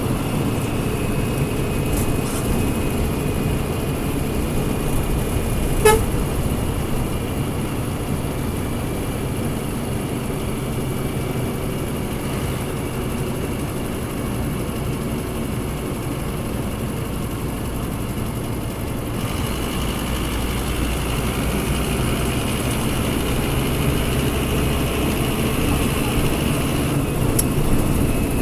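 Scania DC09 diesel engine of an F250HB city bus running steadily, its note shifting about two-thirds of the way through. A short beep sounds about six seconds in.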